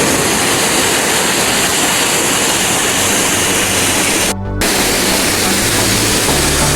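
Loud, steady rush of a waterfall heard up close, with a short break about four and a half seconds in.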